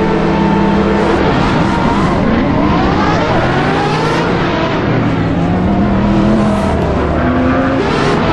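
A high-performance car's engine accelerating hard. Its note holds steady at first, then about a second in it climbs in pitch again and again, dropping back between climbs as it shifts up through the gears.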